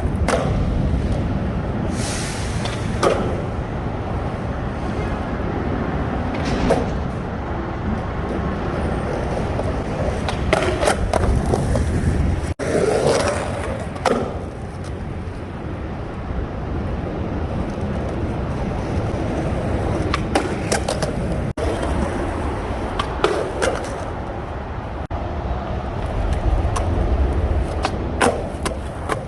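Skateboard wheels rolling on rough pavement, with a steady rumble broken about a dozen times by short scrapes and clacks of the board and trucks on a ledge and the ground.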